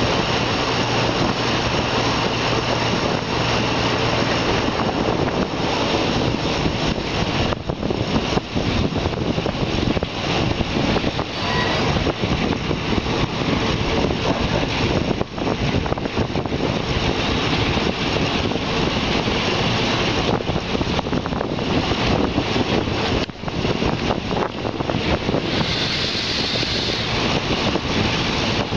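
Passenger train running on its rails, heard from an open carriage window with the rush of air over the microphone. A steady low engine hum in the first few seconds gives way to rougher running noise with occasional sharp knocks as the train gathers speed.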